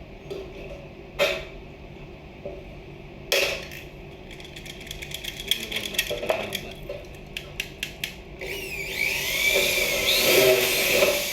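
Power drill: a few sharp knocks and a quick run of clicks, then the drill spins up near the end, its whine rising and falling in pitch as the trigger speed changes.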